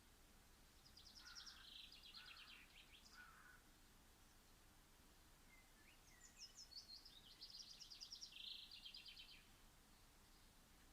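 A songbird singing faintly: two phrases of rapid trilled notes, a few seconds apart.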